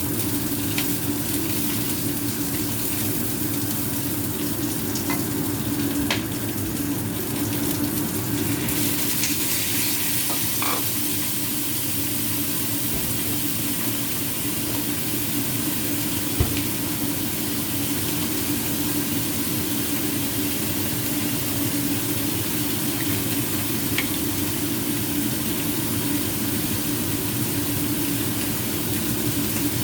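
Food sizzling steadily in a hot pan, with a low steady hum under it and a few faint clicks.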